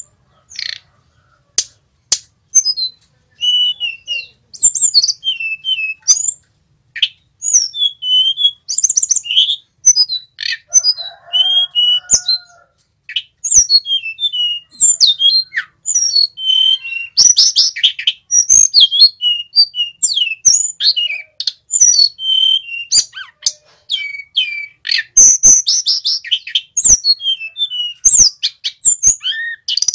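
Male sulingan gunung singing a fast, varied song of short high whistles, chirps and trills in quick succession, with a brief pause about a second in.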